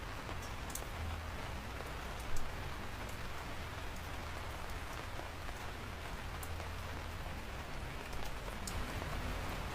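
Steady rain falling, an even hiss with a low rumble underneath and scattered sharp ticks of single drops; one drop lands louder about two seconds in.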